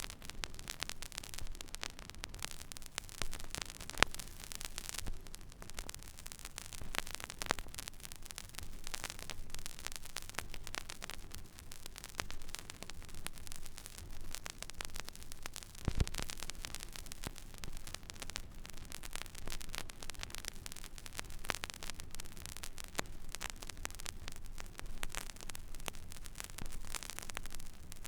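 Stylus running in the silent groove of a vinyl record: steady surface hiss with a low hum and scattered crackles and pops, a couple of louder pops standing out.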